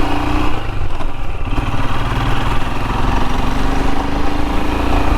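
Royal Enfield Himalayan's single-cylinder engine running on the move. Its note drops about half a second in, then climbs steadily again as the bike pulls.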